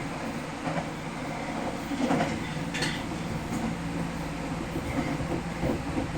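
Nagoya Municipal Subway Higashiyama Line 5050-series train running between stations: a steady rumble of wheels and running gear, with a brief sharp click nearly three seconds in.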